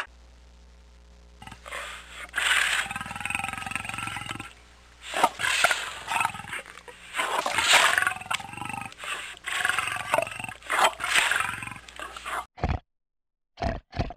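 Male lion roaring and growling: a run of four or five rough calls, each lasting a second or two. Near the end come a few short grunts from a wild boar.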